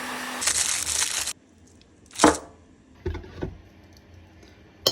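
A hot-air blower running with a steady hum cuts off about a second in. Then come one sharp metallic clunk and a few lighter knocks as a crankshaft bearing is set into a two-stroke engine's crankcase and presses in.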